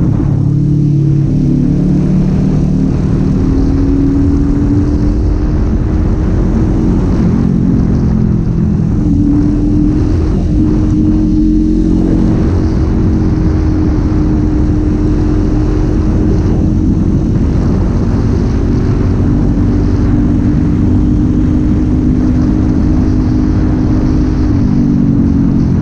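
Kawasaki Z400 parallel-twin engine running while riding, at fairly steady revs with its pitch drifting gently up and down, over a low rumble of wind and road.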